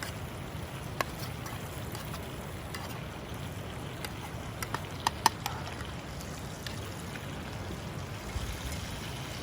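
River water flowing as a steady low rush, with a few sharp clicks over it: one about a second in, and two louder ones a little after five seconds.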